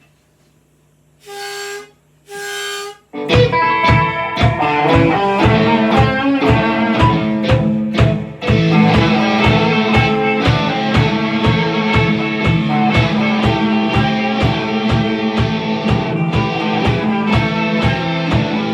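Instrumental opening of a blues-tinged industrial-metal song. Two short held harmonica blasts come first, then drums, rhythm guitars and harmonica come in together about three seconds in with a fast, steady beat.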